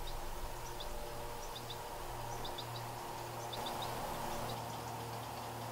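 A small bird calling: short high chirps in quick twos and threes, about once a second, over a steady low outdoor hum.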